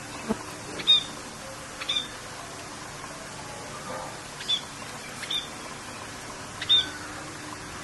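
Short high bird chirps, about five of them a second or so apart, over a steady hiss of rain.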